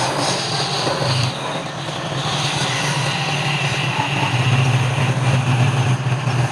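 Wood lathe running steadily: a constant low motor hum under a broad hiss, a little louder in the second half.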